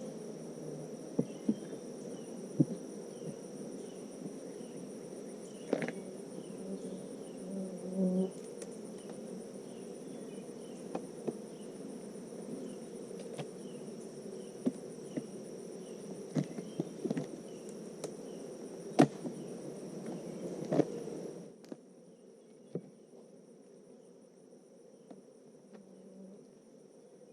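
Honeybees buzzing at an open hive: a steady low hum, with a steady high insect trill above it and scattered sharp clicks and knocks. About three-quarters of the way through, the hum drops abruptly to a much quieter level.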